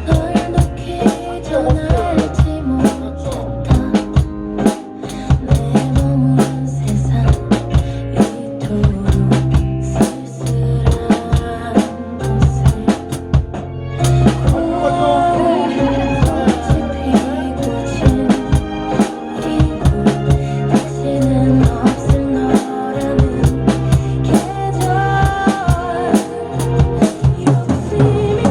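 Drum kit played along with a recorded pop ballad: steady kick, snare and rimshot strokes over the song's sustained backing.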